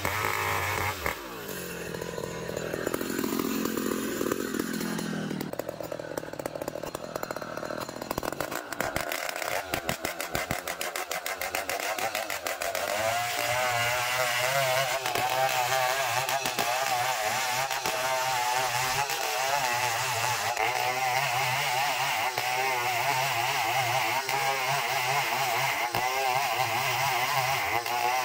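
Two-stroke chainsaw engine: its pitch falls from high revs about a second in and it runs lower for several seconds, then from about eight seconds it runs at steady high revs with a slightly wavering pitch, cutting into a long ulin (Bornean ironwood) log.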